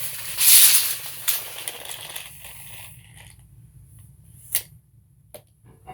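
Steel tape measure blade rattling loudly as it runs along the case, dying away after about two seconds, then two sharp clicks of the tape's case or lock.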